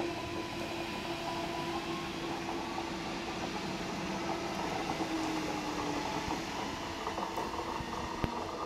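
A train running on the track: a steady rumble carrying a held humming tone and a higher whine. The lower tone slides down slightly about halfway through, and a single sharp click comes near the end.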